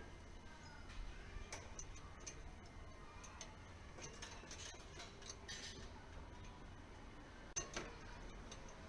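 Faint, scattered clicks and ticks, irregularly spaced, with a sharper click about three quarters of the way through, over a low steady hum.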